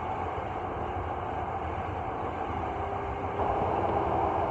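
Electric commuter train running through a subway tunnel, heard from inside the front car: a steady rumble of wheels on rail. A faint steady hum comes in partway through, and the noise grows louder a little over three seconds in.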